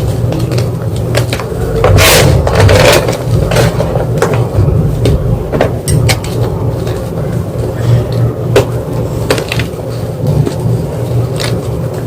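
White gym chalk being crushed: irregular crunches, cracks and scrapes, densest and loudest about two to three seconds in, over a steady low hum.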